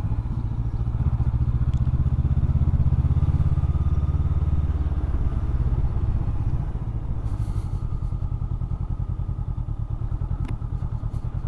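Honda CB500X's 471 cc parallel-twin engine running at low town speed, easing off to a lower, steadier beat about two-thirds of the way through.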